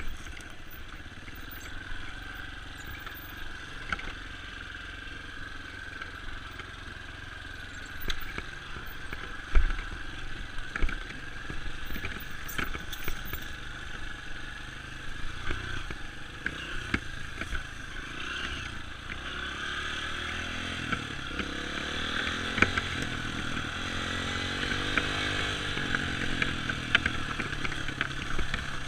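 Dirt bike engine running as the bike is ridden, its pitch rising and falling, with scattered sharp knocks and clatter; the loudest knock comes about ten seconds in.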